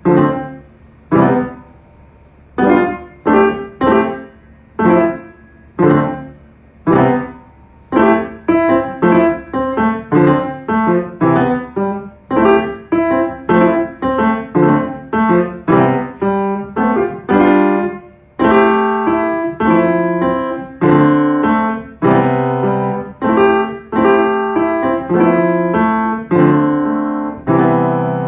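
Piano played with single struck chords about once a second at first, then a busier run of notes and chords from about eight seconds in, ending on a held chord.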